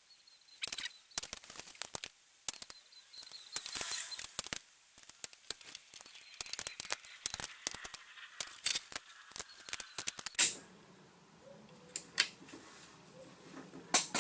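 Ratchet wrench clicking in short irregular runs while the cylinder head nuts of a Mini's 1293 A-series engine are tightened down. The clicking stops about ten seconds in, leaving a quieter background with a few single knocks.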